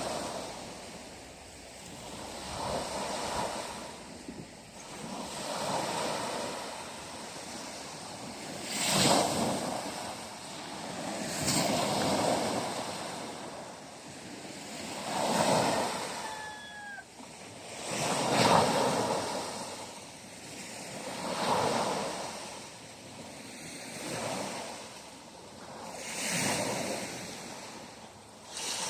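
Sea waves breaking and washing on the shore, swelling and falling back about every three seconds, with a few sharper crashes among them.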